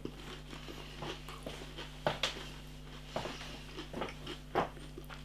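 Chewing a mouthful of crispy buttermilk-coated chicken strip: a few scattered soft crunches and mouth clicks.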